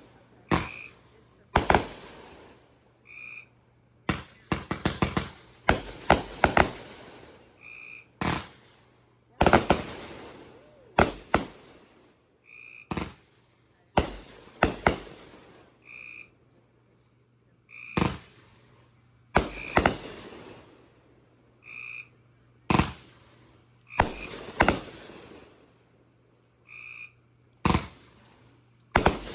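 Backyard fireworks going off: a long series of sharp bangs, some in quick crackling clusters. Between them a short high-pitched call repeats every two to three seconds.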